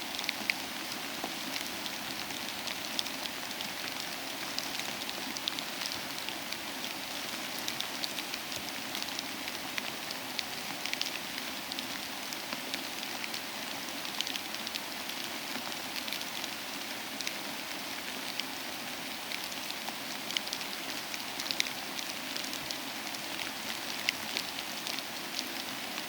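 Steady soft rain with a wood fire crackling, many short sharp ticks scattered over the even hiss.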